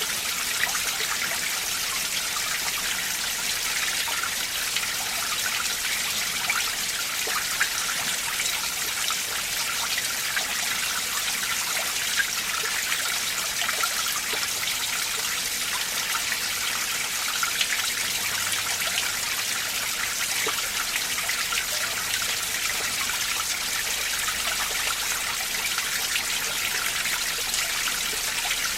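Icy winter mountain stream running over rocks, a steady rush of splashing and trickling water with small irregular splashes.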